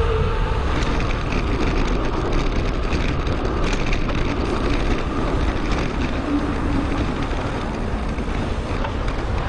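Steady rush of wind and road noise on a bicycle-mounted action camera during a ride, played back sped up.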